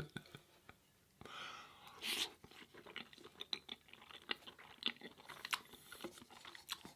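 Close-miked chewing of food: a brief louder crunch about two seconds in, then a run of small wet mouth clicks and smacks.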